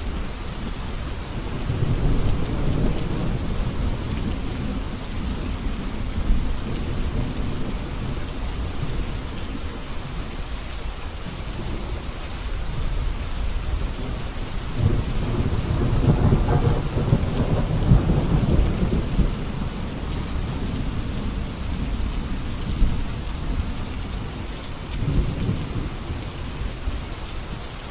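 Steady rain with low rolling rumbles of thunder: one about two seconds in, a longer, louder one around the middle, and a short one near the end.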